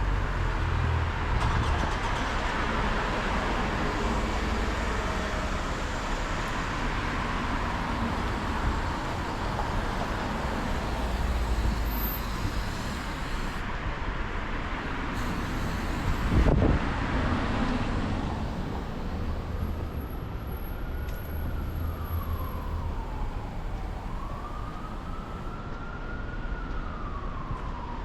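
Steady traffic noise, with one sharp knock a little past halfway. About two-thirds in, a siren starts wailing, its pitch rising and falling slowly over several seconds at a time.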